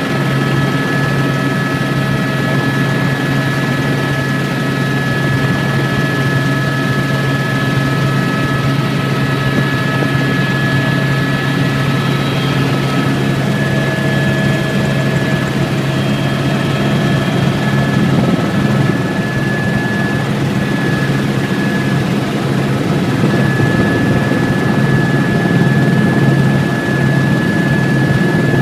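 Tour helicopter in flight, running steadily: a continuous low rotor thrum with a thin high whine above it.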